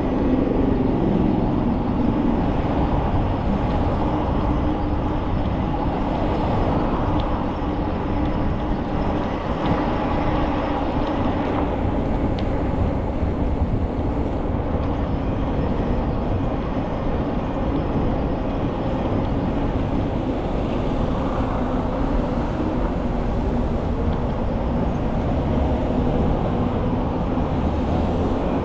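Steady rolling noise of a bicycle ride: tyres humming on the path, with low wind rumble on the microphone. A steady hum runs underneath, and a tone drops in pitch over the first couple of seconds.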